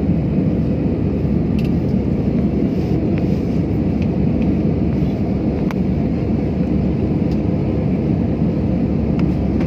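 Airliner engine noise: a steady, even low rumble that holds at the same level throughout, with a few faint ticks over it.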